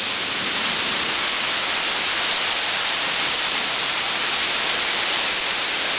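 Heavy thunderstorm rain pouring down: a steady, even hiss.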